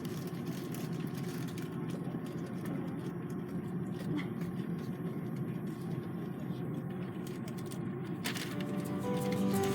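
Steady low rumble of airliner cabin noise. Acoustic guitar music fades in near the end.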